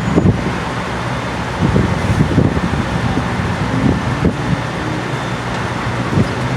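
Steady vehicle engine and road traffic noise, with a low engine hum.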